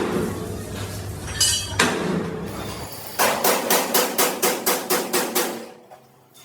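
Hammer blows on steel: a few separate knocks, then a quick run of about ten even strikes, roughly four a second, that stops short before the end.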